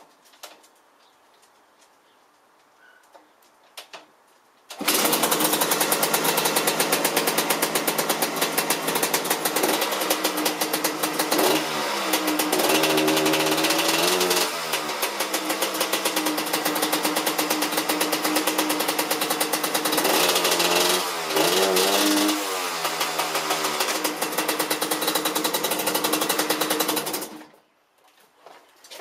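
Dirt bike's Rotax two-stroke single-cylinder engine: a few faint clicks from the kick-start, then the engine catches about five seconds in and runs with a fast, rattly beat. It is revved up and back down twice, and it cuts off suddenly near the end.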